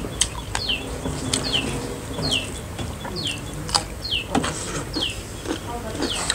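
A bird repeating one short, falling, high chirp a little under once a second, about seven times, over sharp clicks and smacks of people eating by hand from metal plates.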